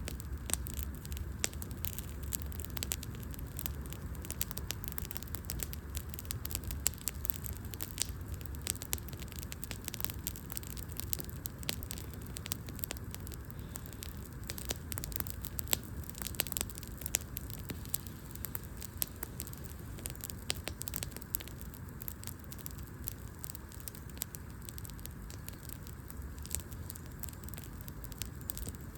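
Wood fire burning, the logs crackling with many small irregular pops and snaps over a low steady rumble of the flames.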